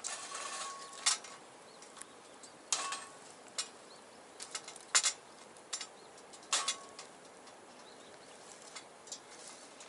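Wood fire crackling in a stainless steel box stove: irregular sharp pops and snaps over a faint hiss. A few pops carry a short ringing tone, and the loudest comes about halfway through.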